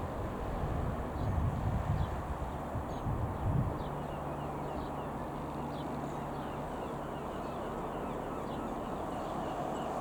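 Wind buffeting the microphone for the first few seconds over a steady low drone, with small birds chirping throughout.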